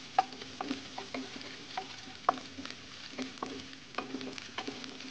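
Diced onion and garlic sizzling in hot oil in a wok, stirred with a wooden spatula that taps and scrapes against the pan in irregular clicks, about two or three a second.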